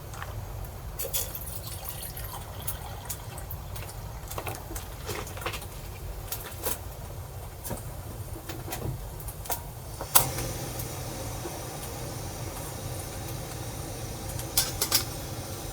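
Typhoon wind rumbling steadily and rain drops tapping irregularly on a small kei-truck camper shell, with one sharp knock about ten seconds in and a quick cluster of knocks near the end.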